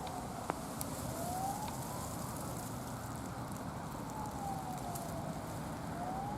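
Faint wailing tone that slowly falls and rises, twice, like a distant siren, over a steady low background noise. A single sharp click about half a second in.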